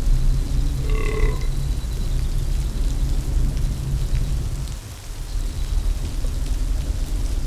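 Designed ride soundtrack: a deep, continuous low rumble that dips briefly about five seconds in, with a short pitched call about a second in.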